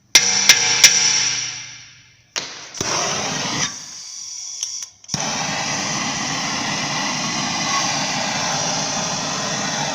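A few sharp metallic knocks that ring out and fade, then, after a break, the steady hiss of a gas blowtorch flame heating a seized suspension bolt to free it.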